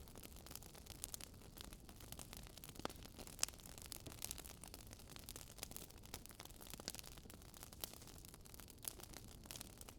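Wood fire crackling faintly: irregular small pops and snaps over a soft steady hiss.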